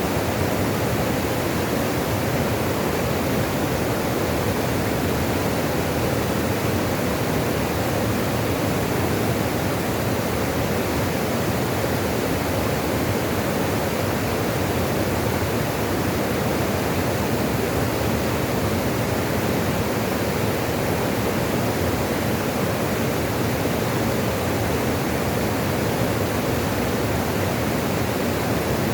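Running water rushing steadily, an even hiss without separate splashes or drips.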